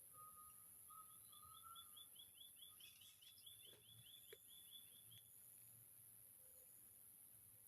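Faint birdsong: a whistled call, then a rapid run of about five chirps a second lasting some four seconds, over a steady high hiss.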